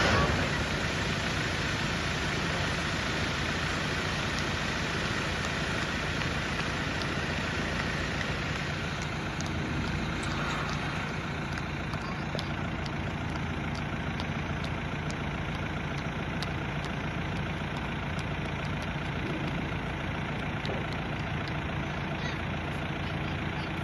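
John Deere tractor engine running steadily at an even speed.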